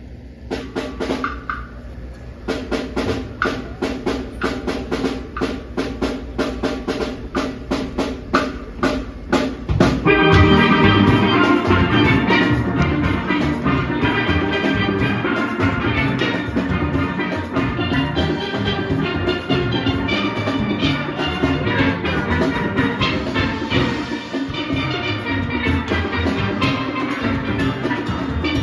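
Steel pan orchestra playing a soca arrangement with drums. It opens with a steady struck pulse, about four beats a second, and about ten seconds in the full band comes in louder and fuller.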